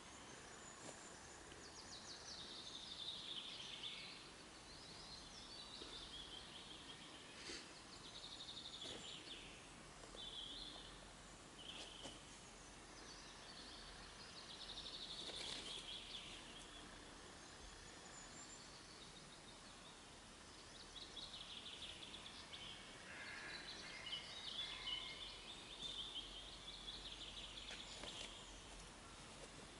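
Woodland birds singing faintly in several separate phrases of chirps and trills, with a few faint clicks in between.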